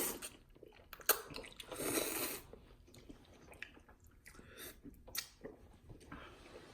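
Close-up wet chewing of noodles, with a louder swell of mouth noise about two seconds in and a few sharp smacking clicks.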